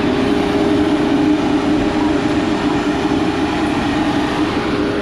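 Heavy diesel engine of logging equipment running steadily, a constant hum over a dense rumble.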